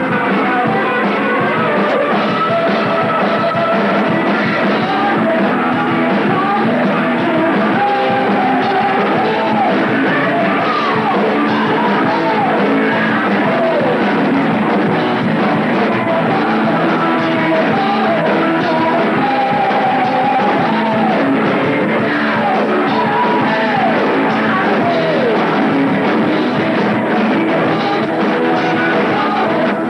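A heavy metal band playing live: distorted electric guitar and drums with a singer. The recording is thin and lo-fi, with little bass or treble.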